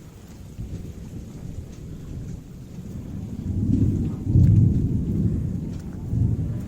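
Rainstorm with raindrops falling and a deep rumble that swells loudest about four seconds in, then eases and rises again briefly near the end.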